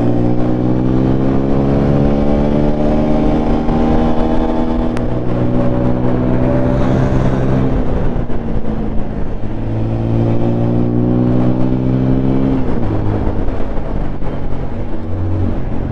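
Single-cylinder 200 cc sport motorcycle engine pulling hard under acceleration, its revs climbing steadily. The revs drop at a gear change about eight seconds in, climb again, and drop at another shift near thirteen seconds. Wind rush on the microphone runs underneath.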